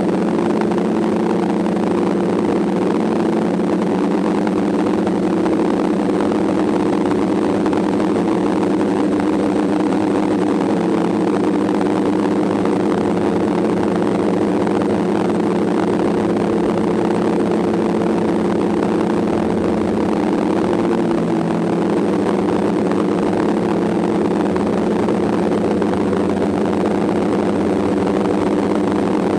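DJI F550 hexacopter's six electric motors and propellers in flight, a loud steady multi-tone whir that shifts pitch slightly about twenty seconds in.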